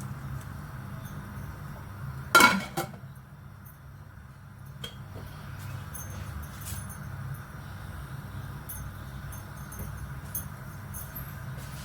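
A loud clink of kitchen cookware that rings briefly, about two seconds in, followed at once by a smaller clink. A few faint ticks come later, over a steady low hum.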